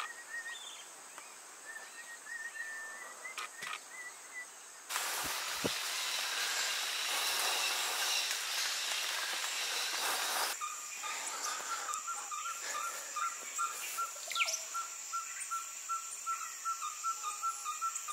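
Ferruginous pygmy owl singing: a long series of evenly spaced whistled toots, about three a second, over a steady high insect drone, starting a little past halfway. Before it comes a few seconds of even rushing hiss, and at the start a few faint bird chirps.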